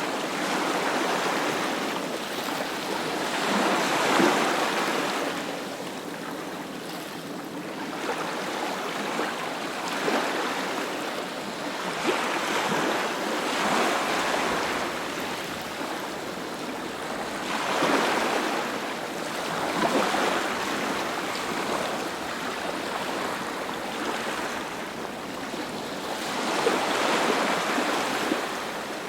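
Sea surf washing onto the shore: a continuous rush of waves that swells and eases every few seconds.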